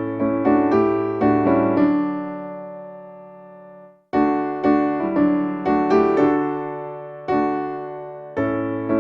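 Piano playing a hymn tune in struck chords over a held bass. The phrase dies away to a brief silence about four seconds in, then the next phrase begins.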